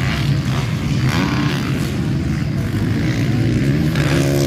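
Motocross bikes racing, their engines running hard and revving up and down, with one rising rev near the end.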